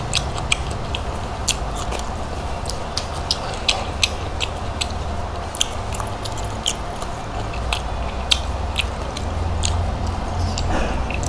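A person chewing and biting food close to the microphone: irregular sharp wet clicks and smacks of the mouth, over a low steady hum.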